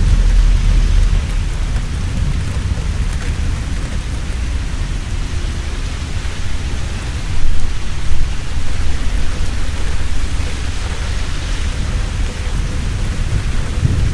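Heavy rain falling steadily, with a low rolling rumble of thunder underneath. About halfway through, the thunder swells into two louder peaks in quick succession.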